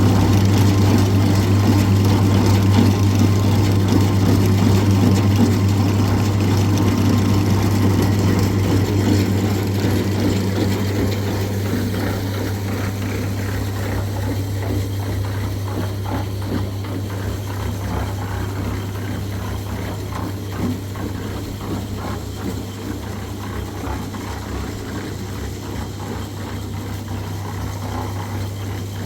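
An engine or motor running steadily with a deep, even hum and some mechanical clatter, slowly growing quieter.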